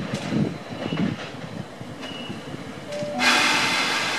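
Double-deck electric suburban train rumbling in over junction points, its wheels knocking a few times on the crossings. About three seconds in, a louder steady hiss starts abruptly.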